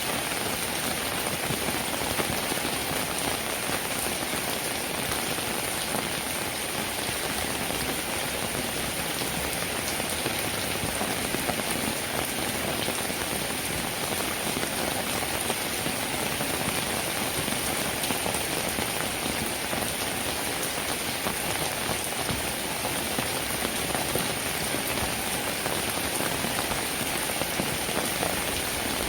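Steady rain falling, a dense even hiss with many individual drops striking a surface.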